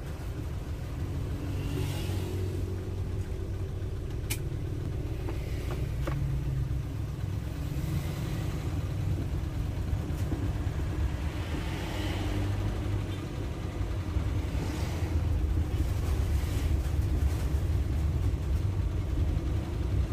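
Suzuki Carry's engine and road noise heard from inside the cab while driving: a steady low rumble, with a sharp click about four seconds in.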